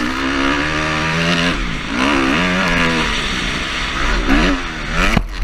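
Motorcycle engine running, its pitch falling and rising several times as the throttle is opened and closed, with a couple of sharp knocks near the end.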